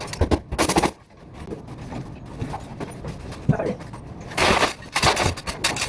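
Irregular knocks and clatter of building work, with a short burst of noise about four and a half seconds in.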